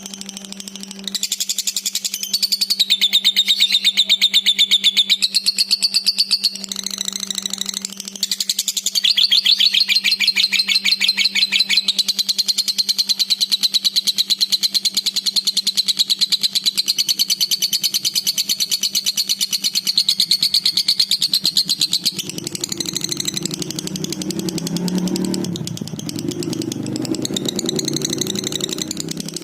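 Dun fallow lovebird singing a long, fast, unbroken chattering trill, the continuous 'gacor' song of a bird in full voice, with only brief breaks.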